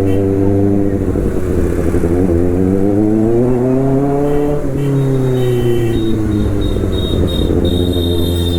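Kawasaki ZX-6R's inline-four engine and exhaust under way. The revs climb smoothly for about three seconds, drop away around the middle, then hold steady.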